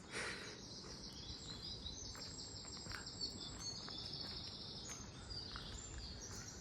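Faint songbird song: several quick trilled phrases of rapid, high-pitched repeated notes, with a few soft ticks of water dripping from wet trees.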